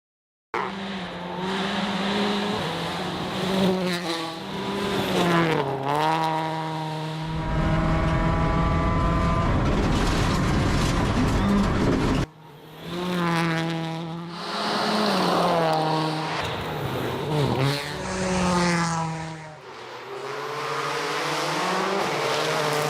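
Rally car engine revving hard and shifting up through the gears, its pitch climbing and dropping again and again. A stretch of loud rushing noise, like tyres on gravel, runs over the engine for about five seconds in the middle.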